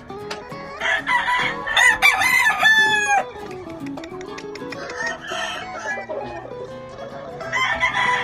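Gamefowl roosters crowing, several crows overlapping from about one to three seconds in and another near the end, with clucking between, over background music.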